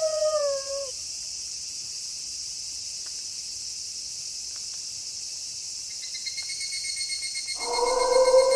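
A wolf howl slides down in pitch and fades out about a second in, over a steady high chirring of night insects. A faint pulsing high trill comes in a few seconds later, and near the end a new long wolf howl starts, held on one pitch.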